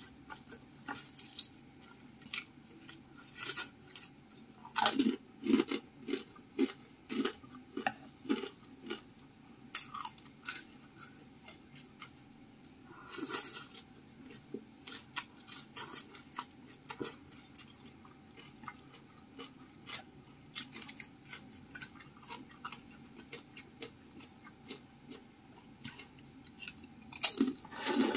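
Close-miked chewing of spicy fried instant noodles and leafy greens: many short mouth sounds, thickest a few seconds in, with a brief slurp about halfway through.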